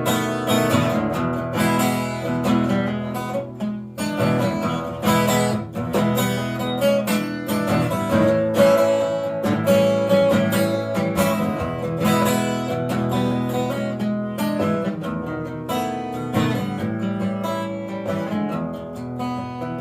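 Acoustic guitar strumming an instrumental break between sung verses of a song.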